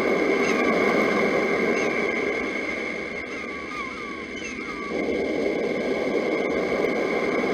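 Sea waves washing steadily, easing off between about three and five seconds in before building again. Over them, birds chirp in short falling notes about twice a second, above a steady high ringing.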